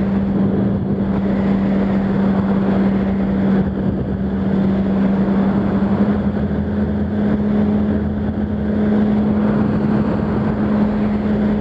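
Yamaha R1's inline-four engine running at a steady highway cruise, its drone holding one even pitch, under a constant rush of riding noise.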